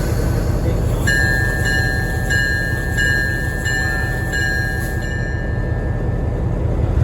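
A railroad bell ringing in evenly spaced strokes, about one and a half a second, for a few seconds before stopping, over the steady low rumble of a train.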